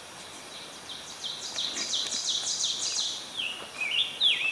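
Songbird singing: a quick run of high, downward-slurred notes, about four a second, then a few lower slurred notes near the end.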